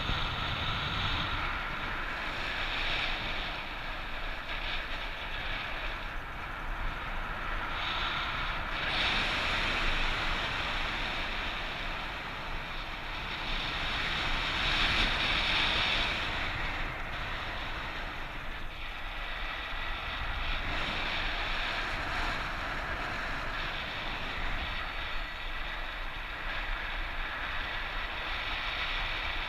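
Wind rushing over the microphone of a paraglider in flight in strong wind, rising and falling in gusts, loudest about fifteen seconds in.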